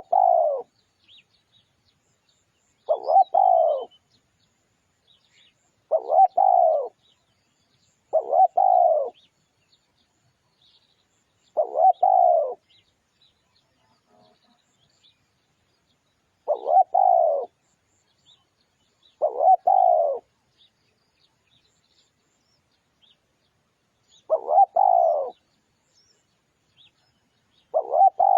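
Spotted dove cooing: short phrases of about a second each, repeated every two to five seconds, with faint chirps of small birds in the background.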